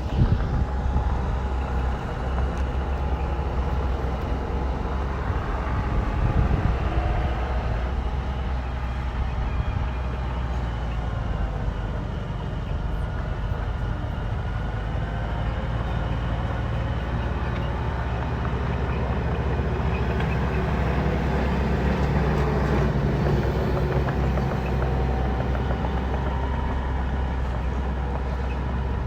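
Bulldozer's diesel engine running steadily under load, with a whine that rises and falls in pitch.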